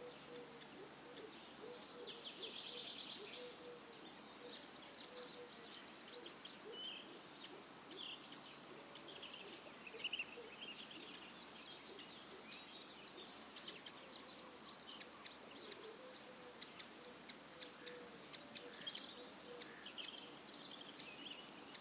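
Several small birds chirping and calling outdoors: short high chirps, quick trills and sharp ticks scattered throughout, over a faint steady background hiss.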